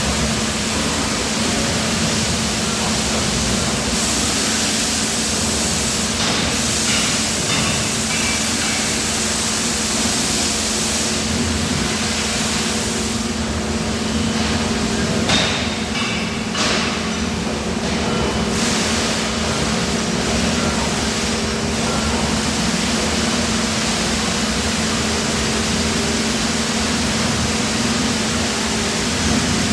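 Steady industrial machinery noise from a die-casting plant: a continuous low hum under a steady hiss, with stretches of stronger hiss now and then.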